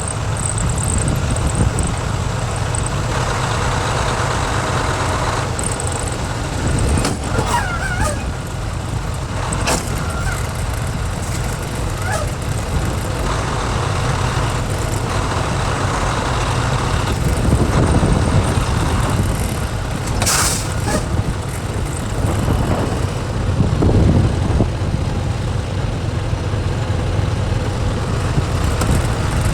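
Heavy truck driving, heard from the cab: a steady low engine drone with road noise. There are scattered light clicks and rattles, and a short burst of hiss about two-thirds of the way through.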